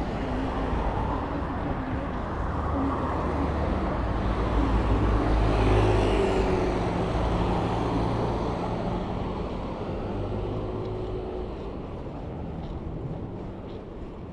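A motor vehicle passing by: its low engine hum grows to loudest about six seconds in, then fades away.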